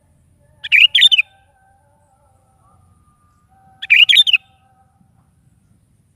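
Sooty-headed bulbul (kutilang) singing two short, loud, bubbly phrases of quick notes, about three seconds apart, with faint whistled notes in the background between them.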